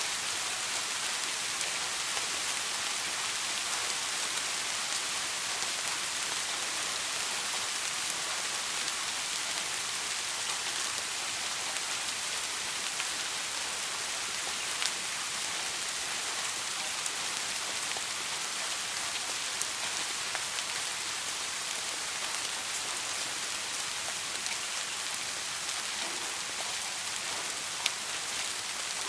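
Steady soft rain falling: an even hiss with a few sharper drop impacts now and then, and no thunder.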